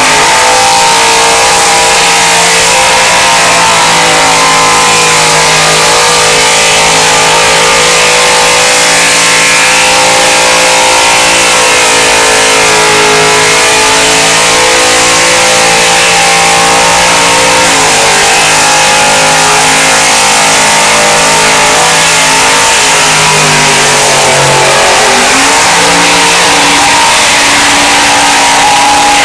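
Chevrolet truck engine held at high revs during a burnout, over a steady hiss of spinning tyres. Loud and sustained, with the revs dipping briefly about 18 seconds in and again around 24 seconds before climbing back.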